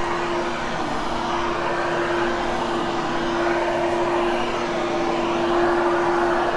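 Hoover HushTone upright vacuum cleaner running steadily over a shag carpet: a constant motor hum with one steady tone and the rush of suction air.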